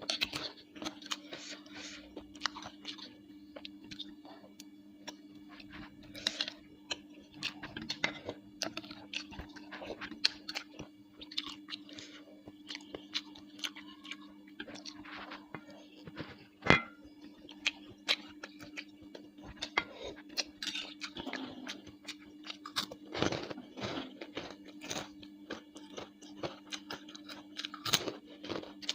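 Close-miked chewing of bakso meatballs: wet mouth sounds and crunching with many small clicks and smacks, and one sharp knock about 17 seconds in. A steady low hum runs underneath.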